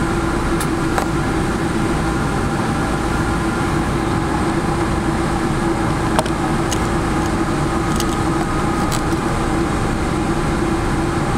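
Steady cabin noise of a Boeing 777-300 taxiing after landing: a low engine and airflow rumble with a held hum, and a few faint clicks.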